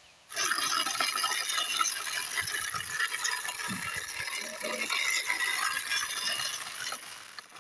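Small geared mechanism running with a steady rattling, clicking whir. It starts just after the opening and fades out near the end.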